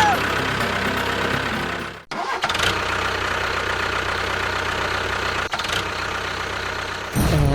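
A motor running steadily with a constant hum, broken by two brief dropouts about two seconds in and again after five seconds; a louder swooping tone comes in near the end.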